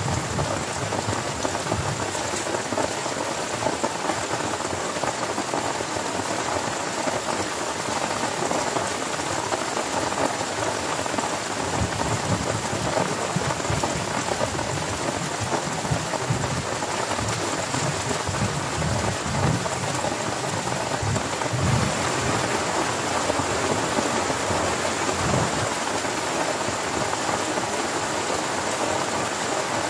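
Heavy rain falling steadily on a tent, with low rumbles of thunder from about twelve seconds in.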